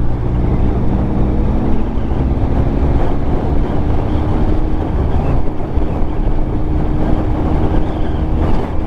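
Motorcycle engine running at a steady road speed, its even drone heard over a heavy low rumble of wind on the microphone.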